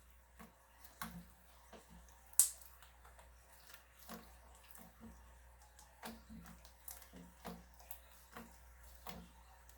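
Slime being squeezed and kneaded by hand, making irregular small wet clicks and pops, with one louder sharp pop about two and a half seconds in.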